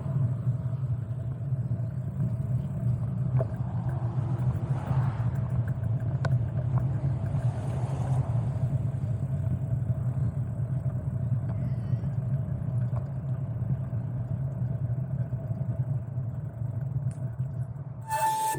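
Steady low rumble with a rapidly fluctuating level, wind buffeting the microphone while riding a bicycle. A brief, louder sound comes near the end.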